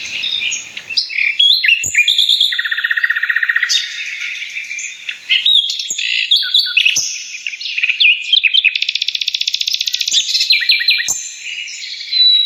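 A flock of birds chirping and calling at once, a dense overlapping chatter of quick chirps, whistled glides and fast trills.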